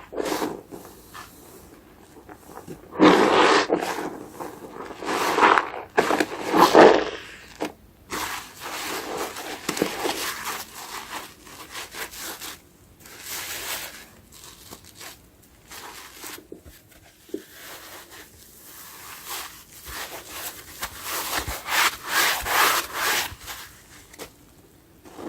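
Soapy sponge being squeezed and rubbed, wet foamy rubbing and squishing in irregular bursts, loudest a few seconds in and again near the end.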